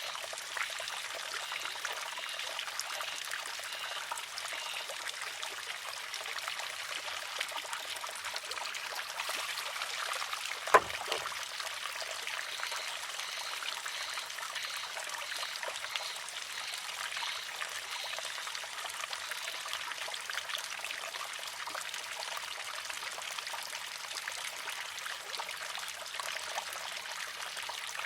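Water trickling steadily through a wooden shishi-odoshi, with one sharp clack about eleven seconds in as the filled arm tips over, empties and strikes its rock.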